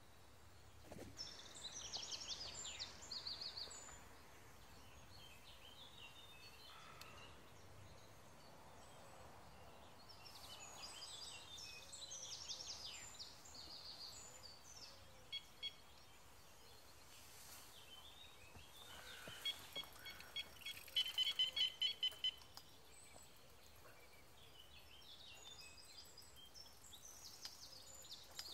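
Songbirds singing in short spells over a quiet outdoor background. About two-thirds of the way through, a quick, even run of about eight high notes is the loudest sound.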